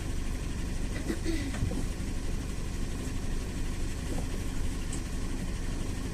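GAZelle City minibus engine running steadily, a low even rumble heard from inside the passenger cabin.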